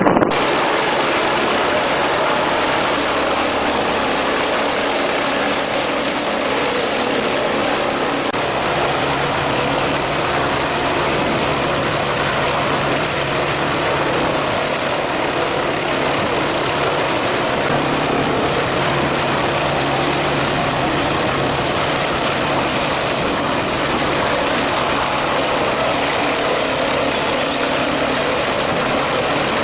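Steady, loud engine running noise with a faint high whine, unchanging throughout; it cuts in abruptly right at the start.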